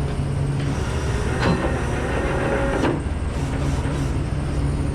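Vehicle engine idling with a steady low hum, with a brief higher tone and some rattling about a second and a half in.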